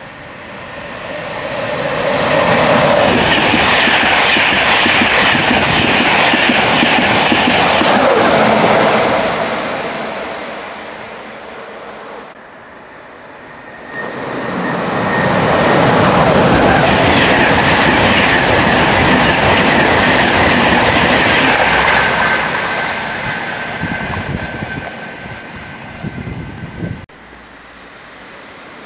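Two trains passing through a station at speed, one after the other. First a Class 91 electric locomotive and its coaches go by, the noise building over a couple of seconds, holding, then fading. A second train follows with a steady high whine over the noise of its wheels on the rails.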